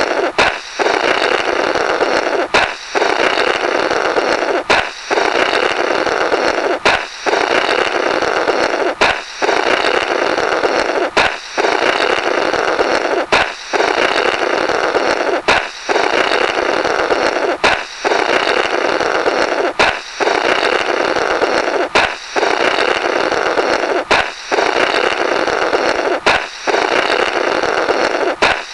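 Cartoonish 'Blorrrt' balloon-break sound effect: a balloon pops with a sharp crack, then someone blows a buzzy blast through the rubber remnants for about two seconds. It repeats as a loop roughly every two seconds, about thirteen times.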